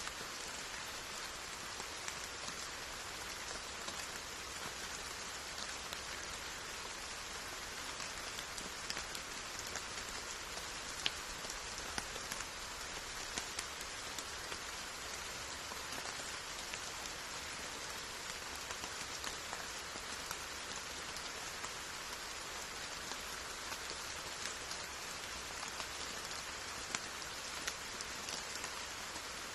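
Steady rain falling, an even hiss with scattered distinct drops striking nearby surfaces.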